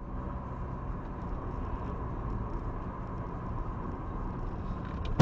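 Steady engine and road noise of a car being driven, recorded by a dashboard camera, with a faint steady high tone running through it.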